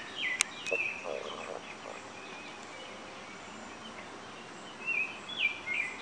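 Birds calling: short, repeated chirps that step downward in pitch, a few near the start and a cluster again near the end, over a steady outdoor background hiss. A couple of light clicks sound near the start.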